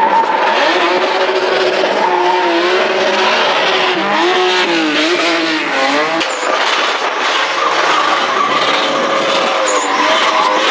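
Drift car engine held at high revs, its pitch wavering up and down, over a continuous hiss of tyres screeching as the car slides.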